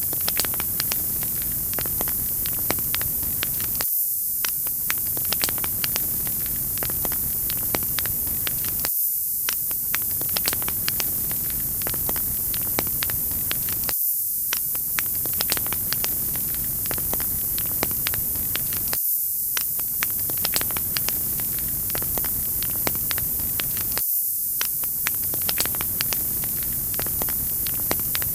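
Wood fire crackling: many sharp snaps and pops over a steady hiss. It is a short loop, with a brief dip in the lower sound about every five seconds.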